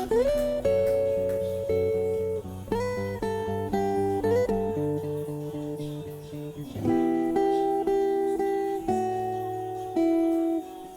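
Background music: a fingerstyle acoustic guitar playing a slow melody over a bass line, with a few notes slid up into pitch.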